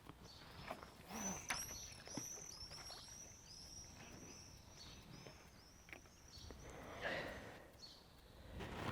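A small bird calling in a quick run of short, high chirps, about three or four a second, over faint rustling and clicks.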